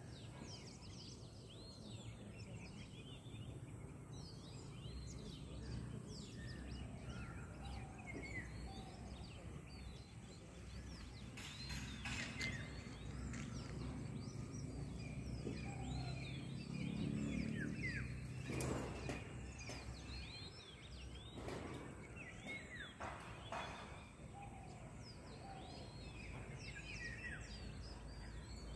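Small birds chirping and twittering, many short high calls one after another, over a steady low rumble of outdoor noise. A few brief noises stand out around the middle.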